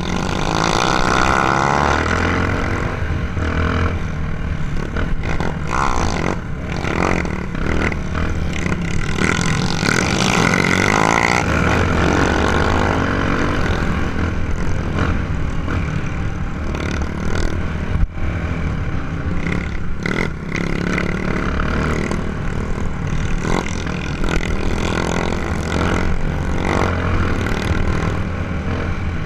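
Trail motorcycle engine running under way, its pitch rising and falling with the throttle, with knocks and clatter from the rough ride.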